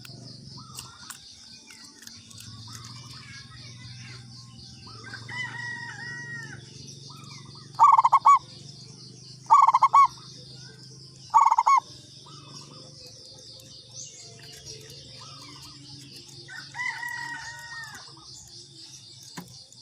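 Zebra dove (perkutut) cooing: three loud, short, trilled coos in a row, with softer calls before and after, over a steady high chirring of insects.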